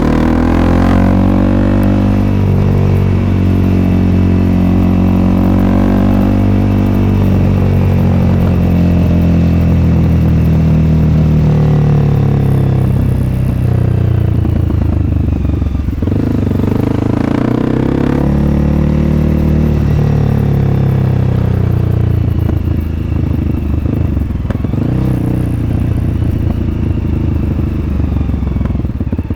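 Honda CRF300L's single-cylinder engine running through an aftermarket FMF Q4-style exhaust, heard on board while riding. The engine pitch rises and falls with throttle and gear changes, swinging most near the start and again a little past halfway.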